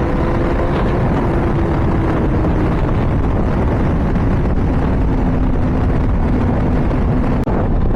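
Honda CBR600RR's inline-four engine running at high revs at speed, under heavy wind rush. The engine note holds nearly steady, sinking slightly, and the sound drops out for an instant near the end.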